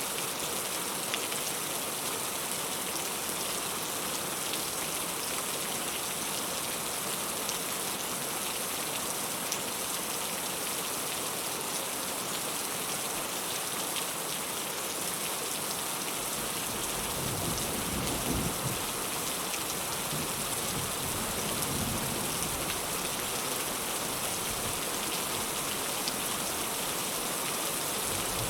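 Heavy rain falling steadily. A little past halfway, a low rumble of thunder rolls in, swelling twice before easing.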